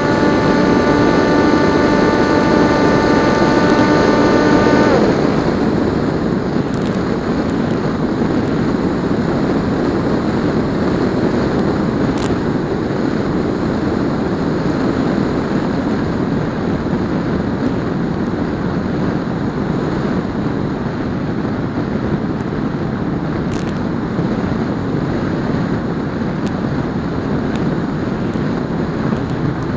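PopWing RC flying wing's electric motor and propeller whining at a steady pitch, then cut off about five seconds in, after which only wind rushing over the airframe and microphone is heard as it glides.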